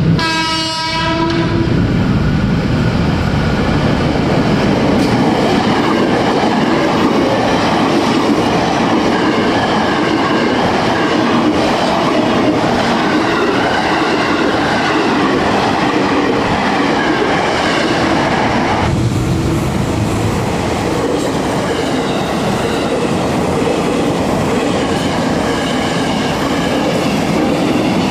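Electric commuter train sounding a short horn blast in the first second or so, then electric commuter trains running past close by, the wheels clattering steadily on the rails. The sound changes abruptly about two-thirds of the way through as a second passing train takes over.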